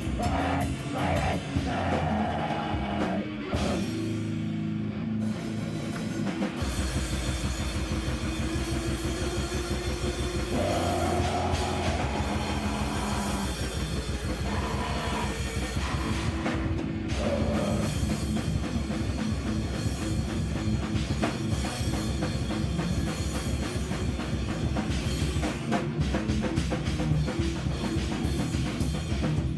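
Live heavy rock band playing loud: a guitar riff with breaks, then drums and bass come in about six seconds in and the full band plays on.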